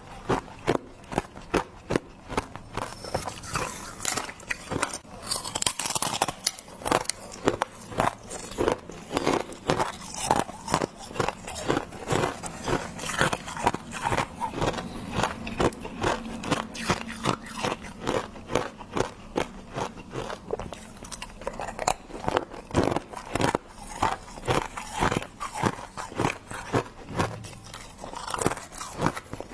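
Freezer frost being bitten and chewed close to the microphone: a steady run of crisp crunches, about two or three a second.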